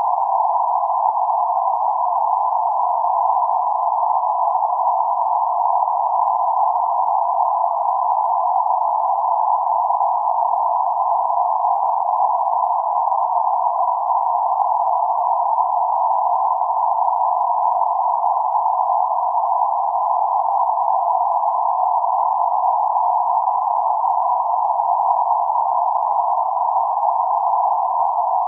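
Band-limited white noise centred around 848 Hz: a steady, unchanging hiss confined to a narrow band, from about 500 Hz to 1.5 kHz, with no highs or lows.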